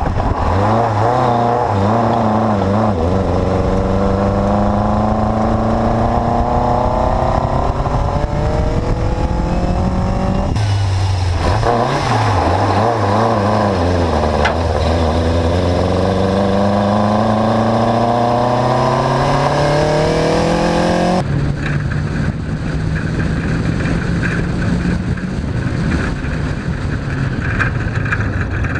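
Škoda 100L rally car's 1.3-litre four-cylinder Škoda Felicia engine, fed by motorcycle carburettors, pulling under acceleration with its pitch climbing slowly over several seconds. This happens twice, in two pulls cut together. After a second cut about two-thirds of the way through, a steadier, lower engine note takes over.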